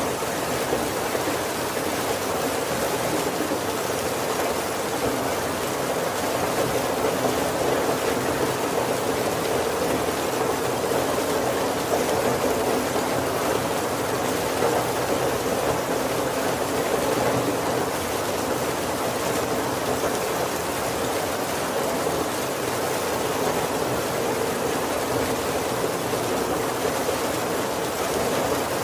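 Heavy rain falling steadily on the roof and windows of a wooden carriage, an even, unchanging hiss of rain.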